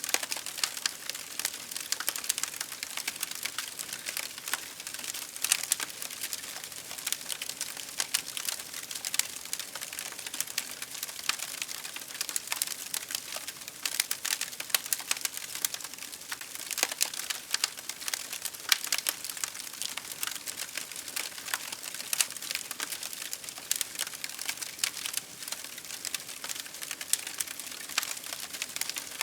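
Wood fire crackling: many small, irregular pops and snaps over a soft steady hiss.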